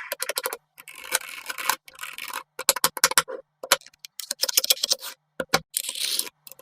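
Small magnetic balls clicking together in quick runs of sharp clicks, with short stretches of rattling noise as they are handled and set in place.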